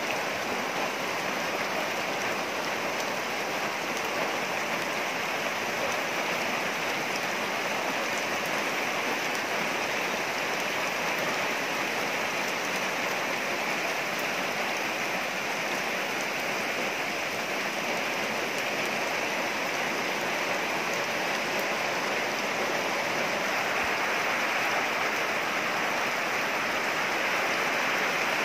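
Steady rain falling on trees and grass, an even hiss with no breaks, growing a little louder over the last few seconds.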